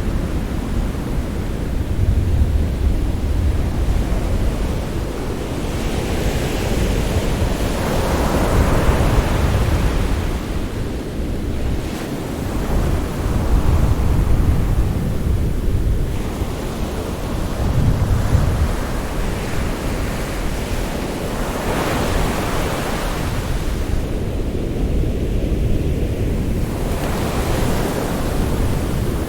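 Sea waves breaking and washing in, three surges of surf swelling and fading over a steady low rumble.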